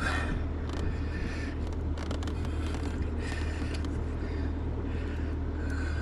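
Steady low hum under intermittent rustling and scraping, with a few light ticks, as wiring connectors under a car's steering column are handled and worked loose.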